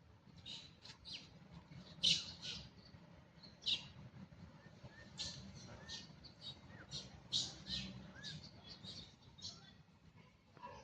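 Many short, high-pitched animal chirps at irregular intervals, with a few brief rising-falling squeaks between them, over a low steady background noise.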